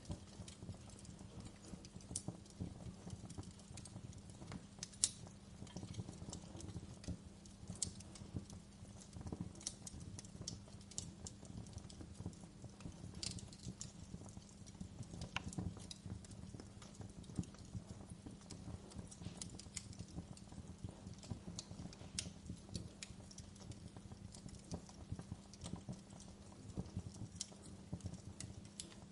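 Wood fire crackling: irregular sharp pops and snaps over a low steady rumble of burning, with one louder pop about five seconds in.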